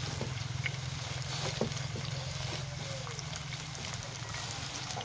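Slices of canned luncheon meat frying in shallow oil in a pan: a steady sizzle with scattered small pops and crackles over a low hum.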